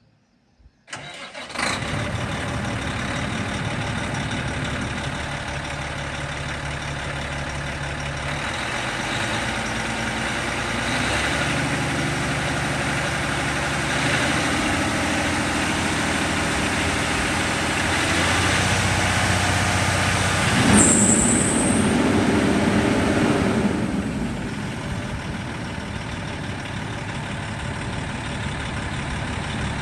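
The diesel engine of a 2006 Kenworth T800 truck tractor cranks and starts about a second in, then runs with its speed stepping up and down a few times. A brief high hiss comes about two-thirds of the way through, and the engine then settles back to a steady idle.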